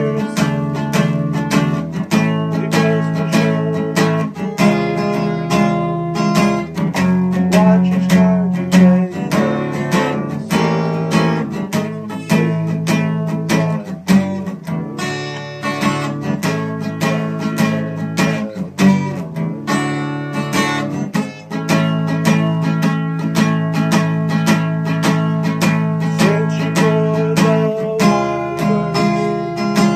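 Acoustic guitar strummed steadily, playing chords with picked notes in between.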